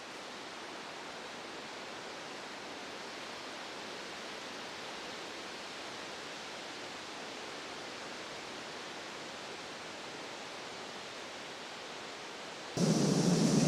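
Steady, even hiss with no distinct events. About a second before the end it cuts abruptly to a much louder sound with a low hum.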